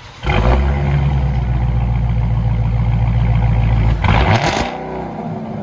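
Straight-piped supercharged 6.2L Hemi V8 of a Hellcat, exhaust with no mufflers, firing up loud and running at a steady high idle, then dropping to a lower, quieter idle about four seconds in.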